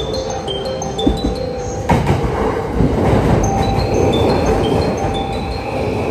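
A train pulling into the platform: the rumble of wheels on rails swells from a knock about two seconds in. Over it a short, high chiming tune of quick notes repeats.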